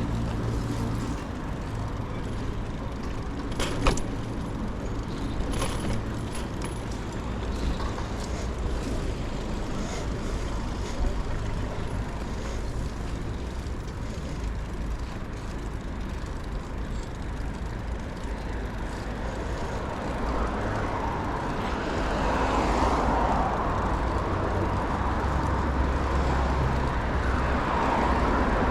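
City street traffic: cars passing with a steady rumble, a couple of sharp clicks about four and six seconds in, and the traffic growing louder in the last third.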